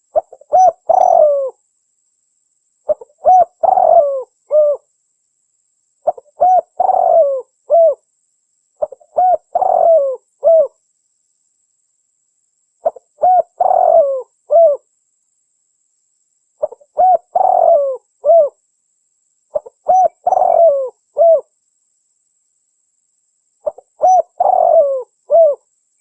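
Spotted dove (tekukur) cooing: eight phrases of several quick coos, each about one and a half seconds long, repeated about every three seconds. This is a lure recording played to draw in wild spotted doves.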